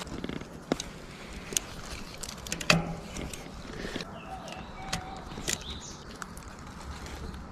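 Birds chirping a few times over scattered sharp clicks and knocks, the loudest knock about a third of the way in.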